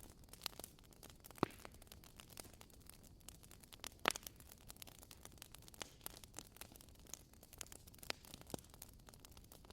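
Wood fire crackling: irregular small snaps and clicks over a soft hiss, with two louder pops, about a second and a half in and again about four seconds in.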